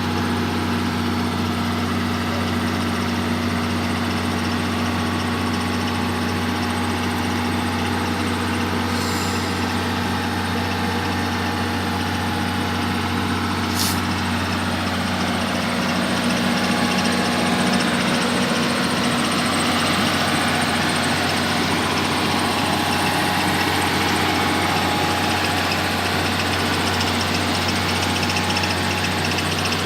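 Heavy diesel engine idling steadily, its note shifting and growing slightly louder about halfway through.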